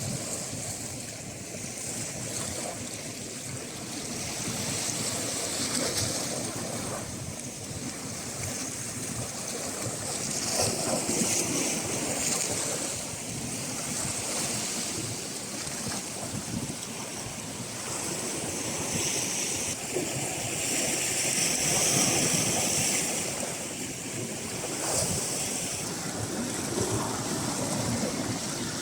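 Sea surf: waves washing in and out as a continuous rushing that swells and ebbs every few seconds, with wind buffeting the microphone.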